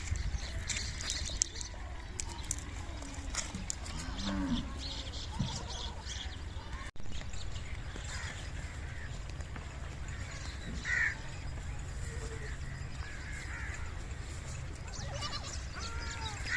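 Beetal goat kids bleating now and then, with a deeper, lower call about four seconds in and several higher bleats in the second half, over a steady low rumble.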